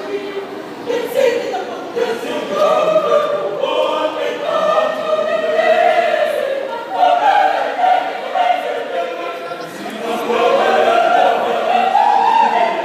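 A choir singing a sustained passage, the melody climbing near the end.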